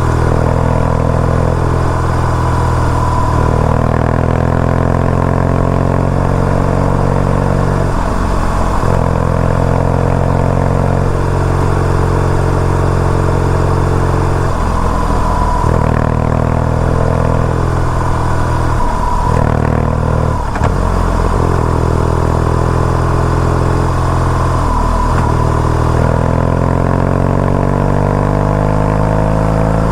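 BMW R nineT Urban GS's air/oil-cooled boxer twin running under way, its revs repeatedly climbing and then dropping sharply as the throttle is closed or a gear is changed, about six times.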